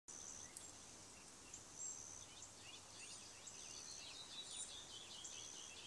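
Faint outdoor ambience: small birds chirping over and over, with short high thin trills coming and going.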